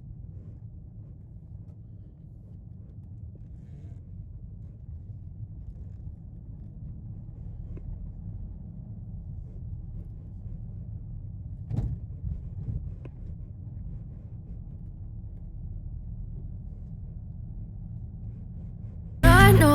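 Steady low rumble of a car on the move, with two brief knocks about twelve and thirteen seconds in. Loud music cuts in right at the end.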